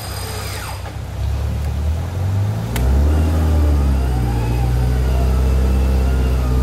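Off-road 4x4's engine revving under load as it crawls through a muddy river, building from about a second in. A single sharp click comes near the middle, after which the engine runs strong and steady.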